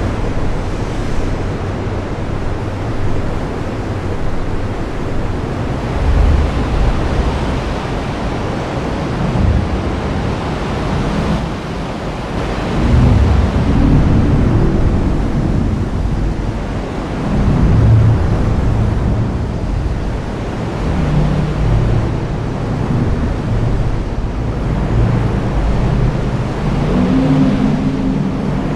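Heavy rain falling steadily, with low rumbles of thunder rolling through several times.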